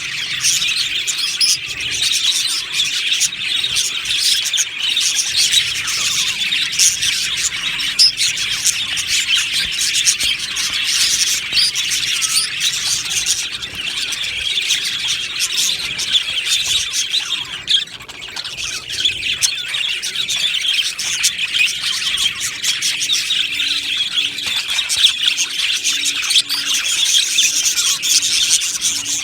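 A flock of budgerigars chattering and chirping together, a dense, continuous overlapping twitter of many birds that dips briefly about two-thirds of the way through.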